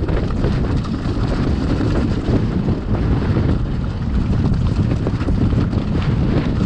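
Strong wind buffeting the microphone: a loud, steady low rumble with no clear motor tone.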